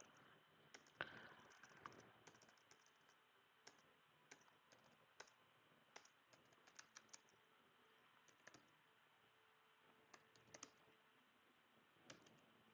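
Faint computer keyboard typing: short bursts of key clicks with pauses between them.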